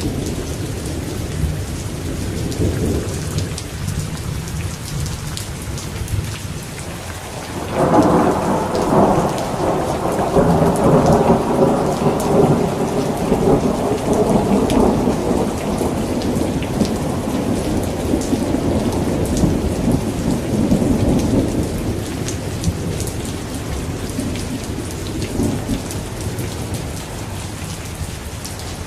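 Steady heavy rain falling, with thunder: a low rumble dies away, then a sudden loud clap about eight seconds in rolls on for more than ten seconds before slowly fading.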